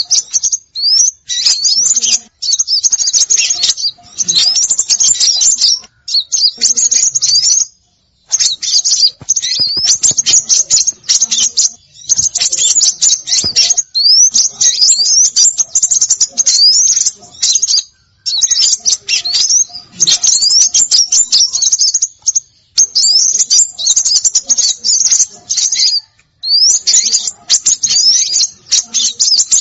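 A bird-lure recording of small songbirds chattering and calling in rapid high-pitched notes with many quick rising whistles. The calls come in runs of a few seconds with short pauses between.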